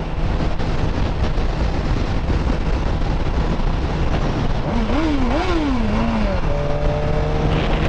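Motorcycle riding noise: a Suzuki sport bike's inline-four engine running under a steady rush of wind. About five seconds in, the engine note rises and falls a few times, then holds steady near the end.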